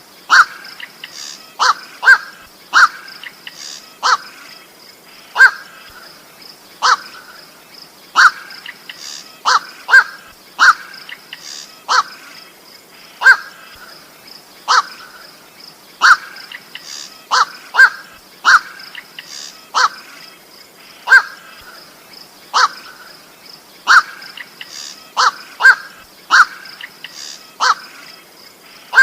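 Koak (goak) bird giving short, harsh single calls over and over, roughly one every second or so, now and then two in quick succession: the call used to lure the bird in.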